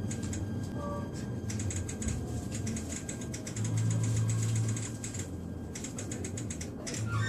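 Inside an E129-series electric train: a low hum that swells and fades, with runs of rapid, sharp clicking over it.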